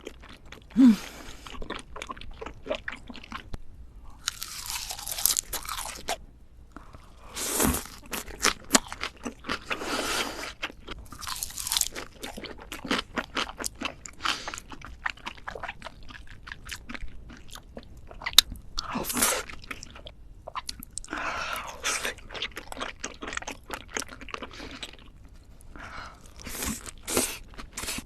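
Close-miked chewing and biting of raw salmon: wet mouth clicks and smacks, with short crunchy bursts every few seconds.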